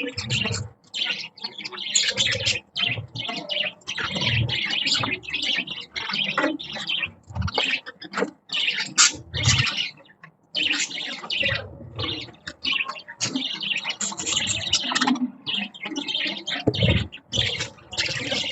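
Budgerigars chirping and chattering in a dense, near-continuous warble, with a few brief pauses and some low thumps.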